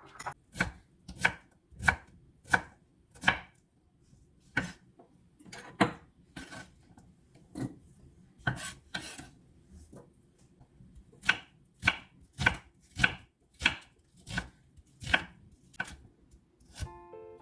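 Kitchen knife chopping food on a cutting board: single even strokes about one and a half a second, pausing briefly partway through before carrying on.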